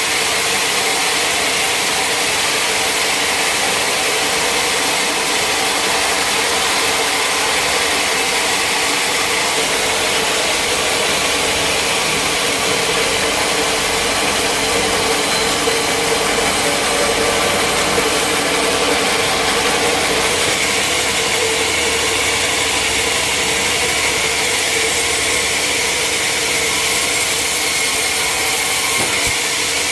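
Sawmill machinery running steadily, a loud continuous mechanical drone with no breaks.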